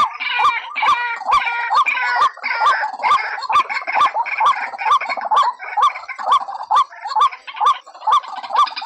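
White-breasted waterhen calling: a loud, continuous run of repeated hooked notes, about two to three a second, with harsher chattering notes layered over them.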